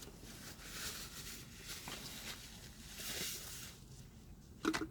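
Faint eating noises between bites: soft rustling swells, with a short voiced sound near the end.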